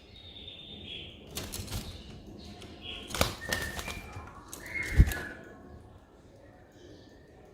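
A cage songbird (cililin) giving a few short, high whistled notes. They are mixed with several sharp knocks, the loudest about five seconds in.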